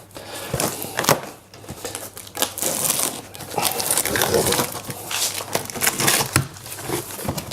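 A cardboard box being opened and unpacked by hand: flaps and packing material rustling and crinkling, with scattered sharp crackles and clicks.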